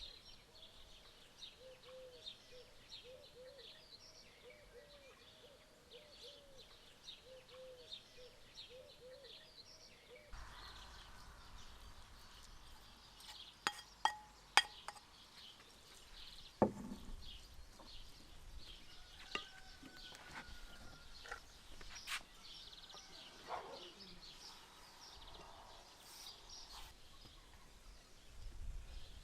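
Birds chirping and twittering throughout, with a run of short repeated lower calls in the first third. After an abrupt change in background, a few sharp clicks and one heavier knock sound over the birdsong.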